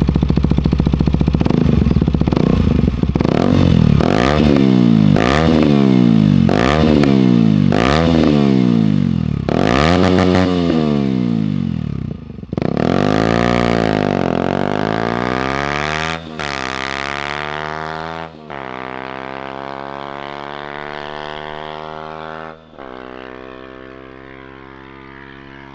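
KTM Duke 125's single-cylinder engine idling, then blipped about seven times in quick succession, about one rev a second. It then pulls away, climbing in pitch through several gear changes and fading as it goes.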